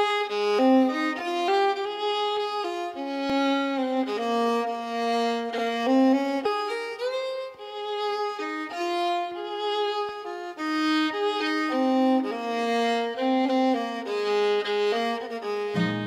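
Background music: a solo violin playing a slow melody of held notes that slide between pitches.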